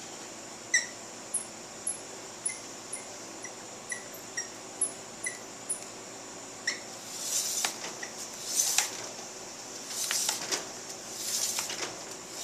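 Front brake lever being pumped repeatedly to build pressure after the caliper is refitted: about a dozen short squeaky clicks, roughly two a second. In the second half come four longer scraping swishes.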